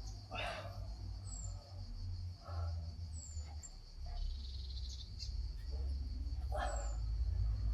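Backyard ambience: a bird gives a short, high, falling chirp every couple of seconds over a steady insect drone and a low rumble. Three breathy bursts come through, about half a second in, near two and a half seconds, and near the end.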